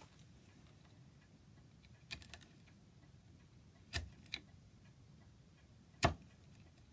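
Sparse sharp clicks and knocks of hand work at a workbench: a quick cluster about two seconds in, two more near four seconds, and one louder knock about six seconds in.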